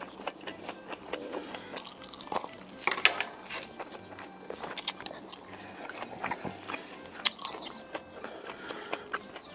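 Close-miked eating: wet chewing and mouth smacks on grilled bulgogi meat, with frequent small clicks of chopsticks and dishes, the sharpest click about three seconds in. Light background music runs underneath.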